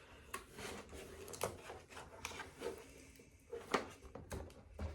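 Faint rubbing and crinkling of a latex balloon being handled while it is blown up, with scattered soft clicks; the loudest comes a little before four seconds in.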